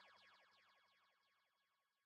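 Very faint tail of an electronic music track dying away: a rapid train of repeating clicks, about a dozen a second, with a few faint held tones, fading out to silence about a second and a half in.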